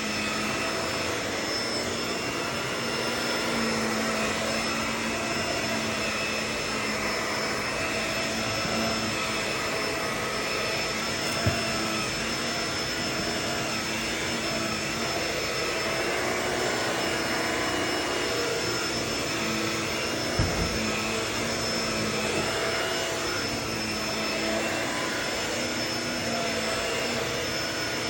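Vacuum cleaner running steadily: a constant rush of air with a motor hum and a thin high-pitched whine. Two short knocks come through, about 11 and 20 seconds in.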